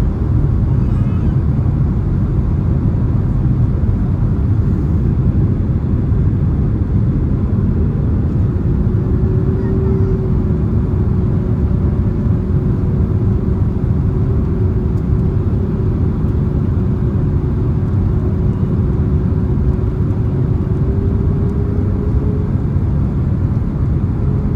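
Steady, deep rush of jet engine and airflow noise inside the passenger cabin of a Boeing 767-300ER, with a faint steady hum that comes in about a third of the way through and rises slightly in pitch near the end.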